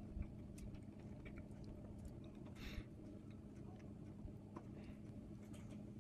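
Faint chewing of a mouthful of ravioli: a few soft scattered mouth clicks and a short soft hiss about halfway through, over a low steady hum.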